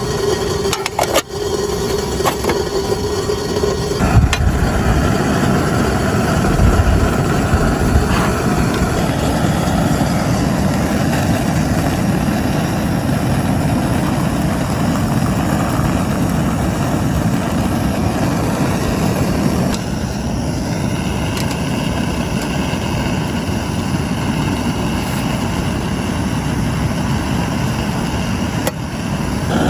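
Heavy rain falling steadily, with a steady hum underneath that stops about four seconds in.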